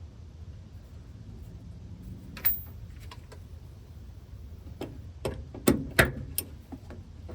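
Hand tools clinking and knocking against metal during brake line work on a truck: one sharp clink about two and a half seconds in, then a quick cluster of several clinks and knocks near the end.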